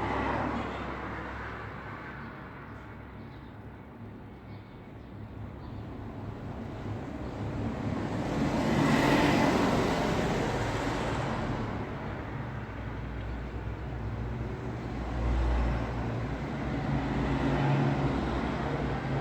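Road traffic: a steady low rumble of engines and tyres, with a vehicle passing close that swells to a peak about halfway through and fades away.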